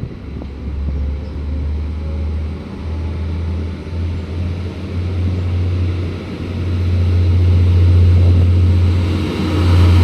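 Diesel engines of a Stadler GTW-D multiple unit, MAN units, running hard under load as the train pulls away, a deep steady drone that grows louder about six and a half seconds in.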